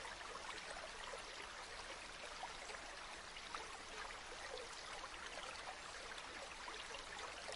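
River water flowing steadily, a soft even rush dotted with small trickling splashes.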